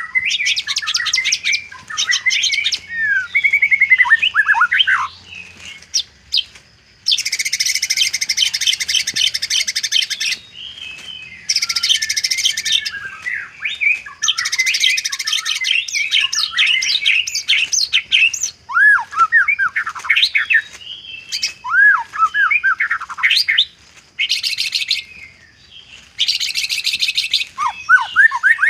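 White-rumped shama singing a varied song: clear slurred whistles alternate with long, harsh rattling trills, each lasting one to three seconds. The trills are the mimicked fill phrases worked into the song.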